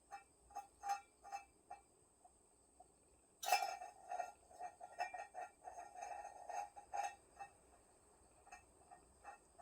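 Kittens giving short, high squeaky mews, scattered at first, then a quick run of them from about three and a half seconds in. A steady high insect drone runs underneath.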